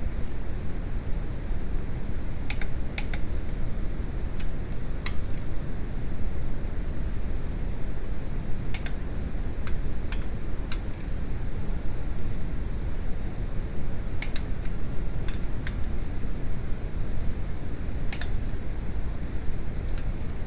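Steady low rumbling background noise with scattered sharp clicks, one every couple of seconds or so, some in quick pairs.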